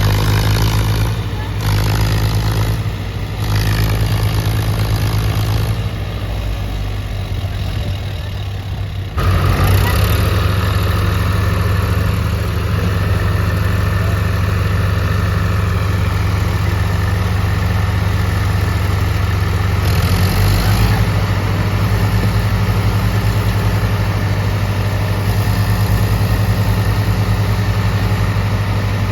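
Tractor diesel engine running steadily, growing louder and harsher about nine seconds in.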